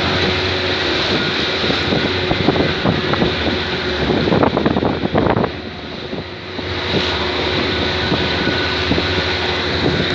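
Boat engine running steadily under heavy wind buffeting on the microphone, with a louder rush of rough noise from about two to five seconds in.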